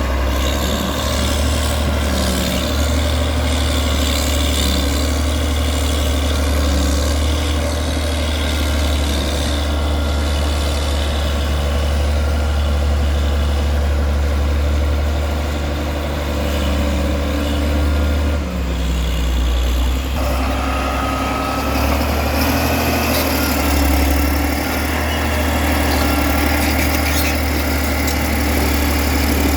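Caterpillar D6D bulldozer's 3306T six-cylinder turbo diesel engine running steadily at idle, with a brief dip about two-thirds of the way through.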